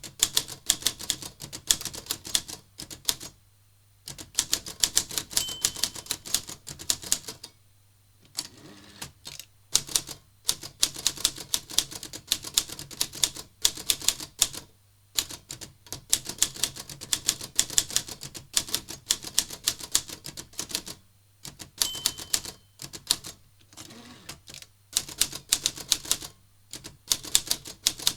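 Olivetti Lettra 22 manual portable typewriter being typed on at a quick pace: sharp clacking key strikes in runs broken by short pauses. A short bell-like ring sounds twice, about 5 s and 22 s in, typical of the margin bell warning of the line's end.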